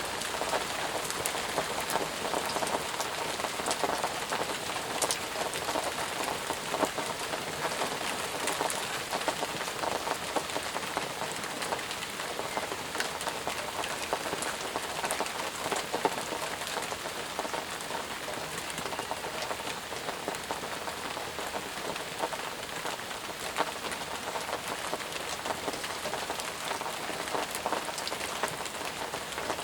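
Steady rain falling on surfaces, an even hiss with many separate drops ticking through it.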